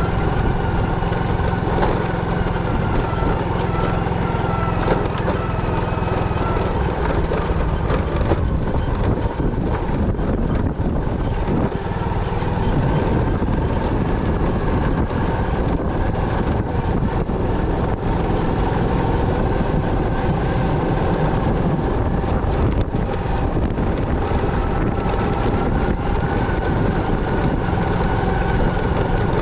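Motorcycle engine running steadily, with a rougher, less even stretch around ten seconds in.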